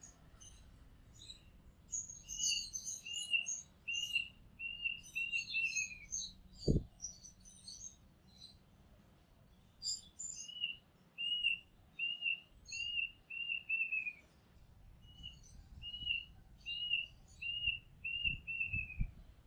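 Oriental magpie robin singing: runs of short whistled notes repeated about one and a half times a second, with scattered higher chirps between them. A brief low thump comes about seven seconds in, and a few softer low thuds near the end.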